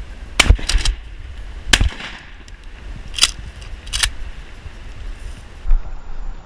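A run of about six short, sharp knocks or cracks, several in the first two seconds and two more a few seconds in, over low wind rumble on the microphone.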